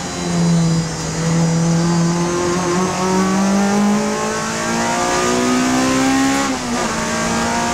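Honda Civic FD2 race car's four-cylinder engine pulling under load, its pitch climbing steadily. About six and a half seconds in there is a quick gear change, and then the pitch starts climbing again.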